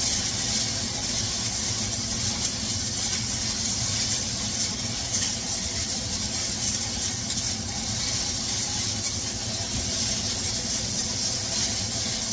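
Chicken pieces sizzling steadily in a hot wok, not yet cooked through, with a steady low hum underneath.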